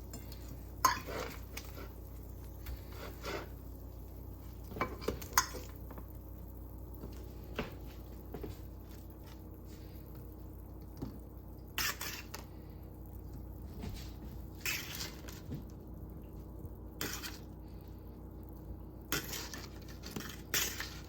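Cutlery and dishes clinking and scraping now and then: scattered sharp clinks, loudest about a second in, around five seconds in, and in a cluster near the end.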